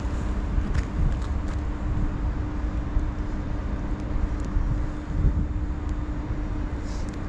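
Electric locomotive hauling passenger coaches, coming slowly into the station: a steady low rumble with a constant hum.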